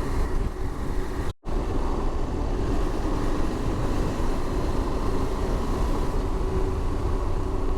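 Motorcycle engine running at steady speed under wind rush, heard from the rider's position while riding. The sound cuts out completely for a split second about a second and a half in, then carries on unchanged.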